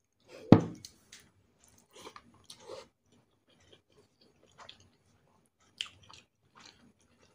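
Close-up mukbang eating sounds: a loud bite as a handful of rice with rendang chicken and vegetables goes into the mouth about half a second in, then chewing with scattered short wet mouth smacks.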